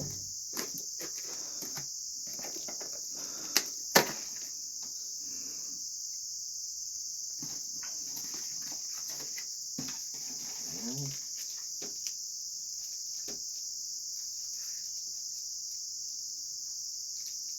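Steady high-pitched chorus of crickets, with soft rustling and handling noises over it and two sharp clicks about four seconds in.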